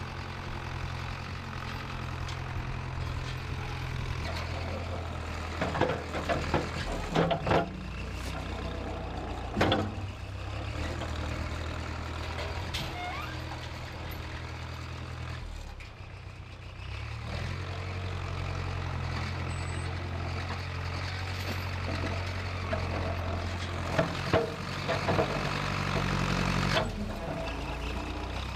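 The diesel engine of a 1968 Case backhoe running steadily under work, its note dipping briefly about halfway through and then picking back up. Several sharp clanks and knocks come in bunches, a few seconds in and again near the end.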